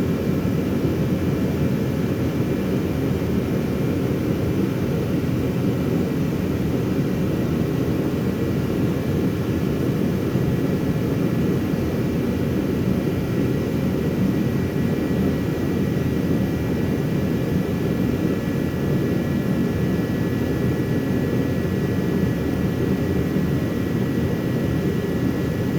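Shop heater running: a steady blower rush with a faint, steady high-pitched whine over it.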